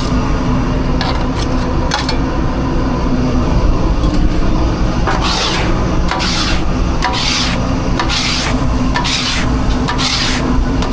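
Rhythmic rasping strokes, about one a second, starting about five seconds in, over a steady low machine hum, with a few light clicks early on.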